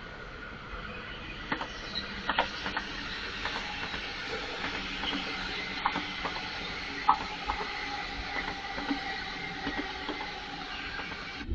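Train running past on the track: a steady rumble and hiss, with irregular sharp clicks from the wheels and rails and faint squealing tones.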